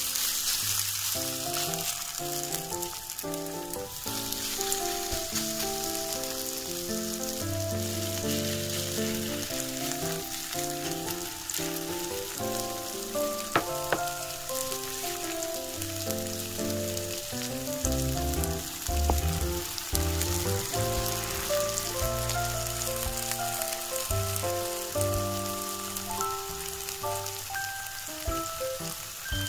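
Julienned potato frying in hot oil in a pan, a steady sizzle. Background music with a melody and bass line plays over it.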